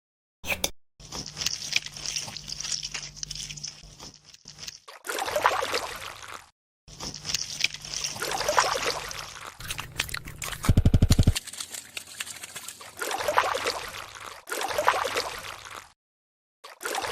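Edited sound effects for stop-motion cooking: stretches of crackling, scraping and liquid noises, cut apart by short dead silences, with a brief loud, rapidly pulsing low buzz about 11 s in.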